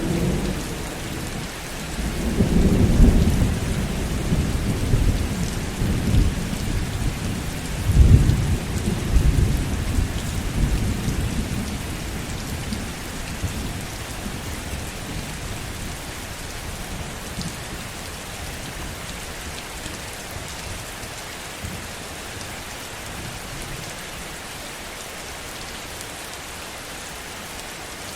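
Heavy rain falling steadily, with a long roll of thunder starting about two seconds in, peaking twice and rumbling away to leave only the rain about halfway through.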